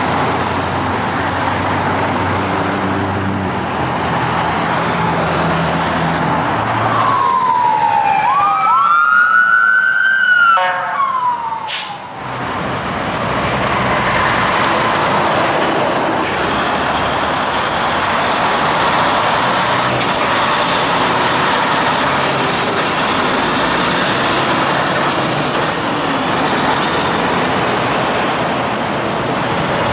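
Highway traffic passing, with trucks running by. About seven seconds in, a siren-like wail swoops down, rises and falls again for about four seconds, then cuts off with a sharp click.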